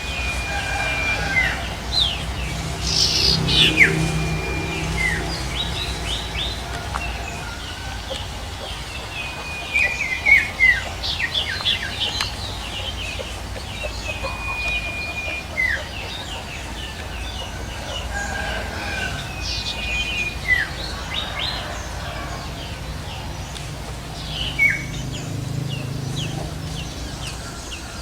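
Bird song in the wild from a male bird known in Indonesia as 'sirtu': several phrases of a clear, held whistle that slides down at the end, mixed with quick chirps.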